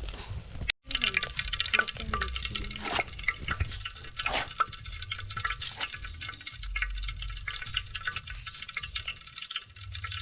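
Food cooking in a pot, a dense crackling with occasional louder stirring clicks, after a short break in the sound near the start.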